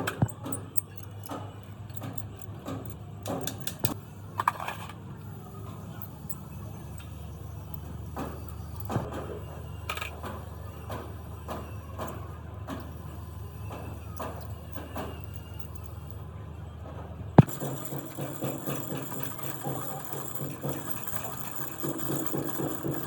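Workshop handling of metal compressor parts: scattered light metallic clicks and knocks over a steady low hum. A single sharp knock comes about seventeen seconds in, after which the hum stops and a busier clatter takes over.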